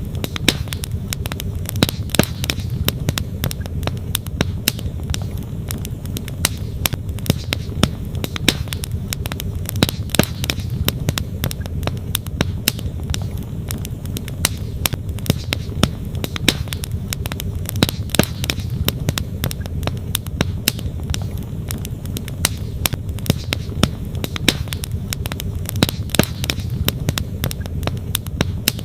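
Wood campfire crackling with frequent sharp pops, over the steady low rush of a flowing stream.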